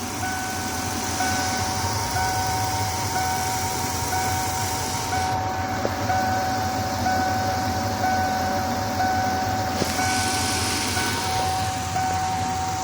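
2000 Ford Econoline E150's V8 engine idling with a shake from a misfiring cylinder, which turned out to be cylinder #7 with a bad coil-on-plug ignition coil. A steady high tone sounds over the idle, breaking off briefly about once a second.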